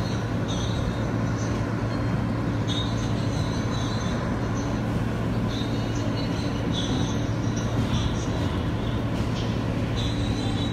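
New York City subway J train running on elevated track: a steady rumble with a constant low hum, and short high squeals coming and going.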